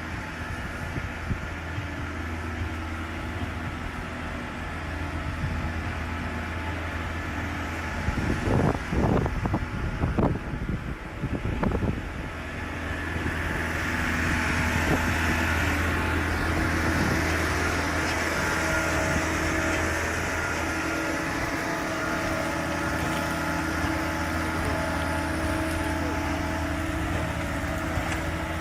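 Concrete pump truck's diesel engine running steadily while its pump draws water, with a few louder bursts of noise about nine to twelve seconds in and a rushing hiss that joins at about thirteen seconds and stays.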